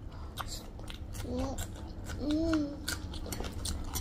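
Close-up chewing of soft, sticky spiced noodle snack, with many small wet mouth clicks and smacks. Two short hummed voice sounds come about a third and two-thirds of the way through.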